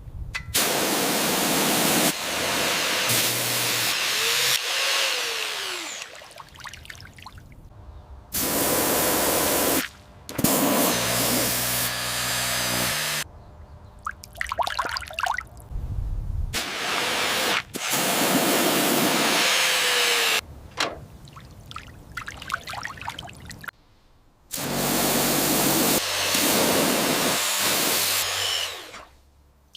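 Repeated bursts of a loud hissing spray jet, each lasting from about a second to several seconds, with water trickling and dripping in the pauses between them.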